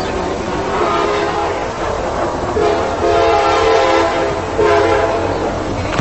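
Train horn sounding several steady tones together in about three long blasts, over the steady low rumble of the passing train.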